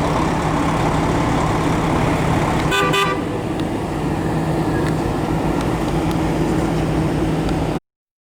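2007 Shelby GT500's supercharged 5.4-litre V8 running steadily, with a brief car-horn toot about three seconds in. The sound cuts off suddenly near the end.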